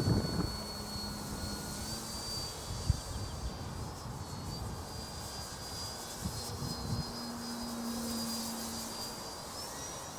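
Distant brushless electric motor and propeller of an RC model aeroplane in flight: a thin, steady high whine that steps up and down in pitch as the throttle changes. Low rumbling wind noise runs underneath, with a loud low thump right at the start.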